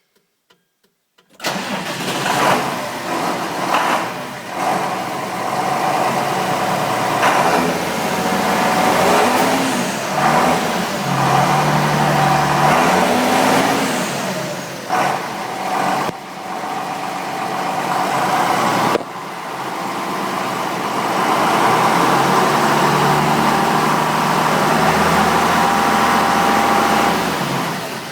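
John Deere tractor diesel engine running and revving up and down, with a steady high whistle, typical of a turbocharger, over the engine note. It comes in suddenly about a second and a half in and dips briefly twice.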